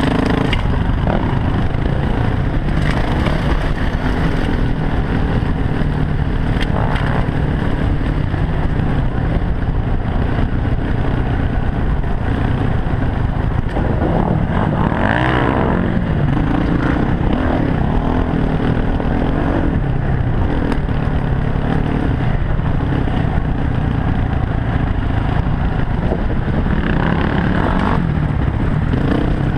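Dirt bike engine running continuously while ridden, its pitch rising and falling with the throttle, most markedly about halfway through.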